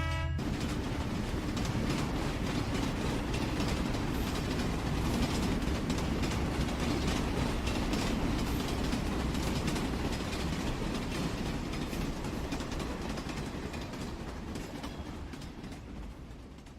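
Train horn cutting off just after the start, giving way to a train running on the rails with a steady rumble and rapid fine clicks of the wheels. The sound fades out over the last few seconds.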